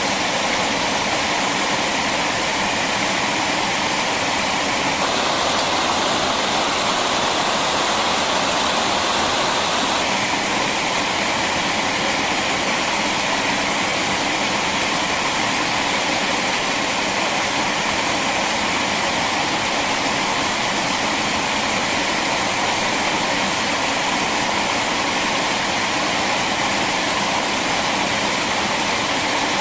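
Steady rushing water, like a stream or small waterfall, a little louder for a few seconds about five seconds in.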